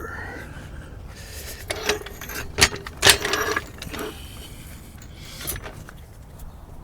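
A handful of sharp metallic clanks and rattles from metal gear being handled, the loudest two about half a second apart near the middle.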